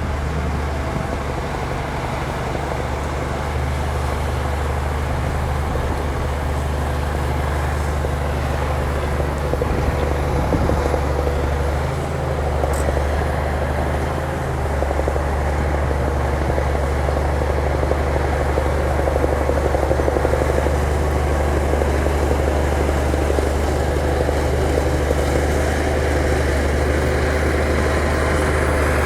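Bulldozer's diesel engine running steadily under load, a continuous low drone with mechanical noise over it.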